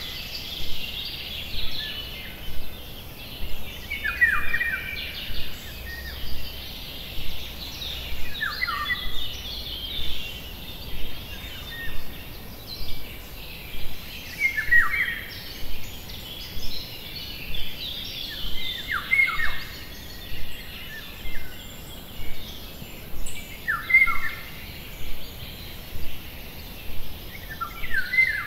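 Birdsong: small birds chirping at about one call a second, with a louder falling call about every four to five seconds.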